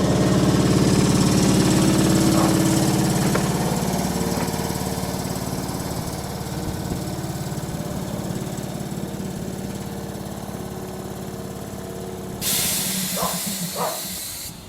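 A train's engine running with a steady rumble that slowly fades away. A sudden hiss cuts in near the end and stops abruptly.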